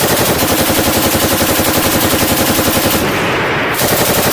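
Belt-fed machine gun firing a long, unbroken automatic burst: a rapid, even rhythm of shots.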